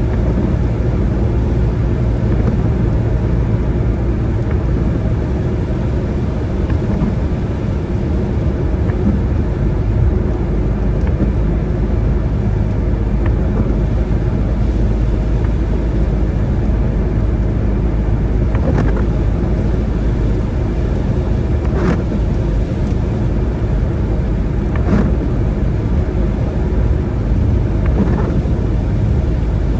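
Steady low rumble of a car driving on wet roads, road and engine noise with no change in speed, and a few faint clicks about every three seconds in the second half.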